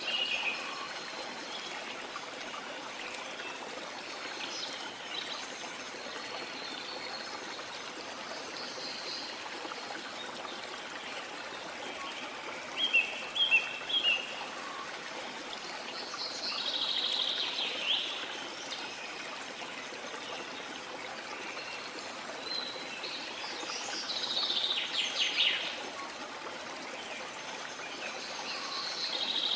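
Steady rush of falling water from a rainforest waterfall, with birds calling over it now and then. A quick run of sharp chirps about halfway through is the loudest moment.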